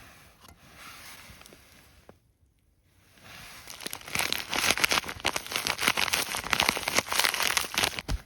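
Packaging crinkling as it is handled, starting about three seconds in and turning loud and dense.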